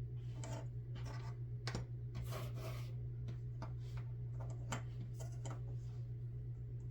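Faint scratchy strokes and small clicks of a fine paintbrush working paint onto small plastic model parts, over a steady low hum.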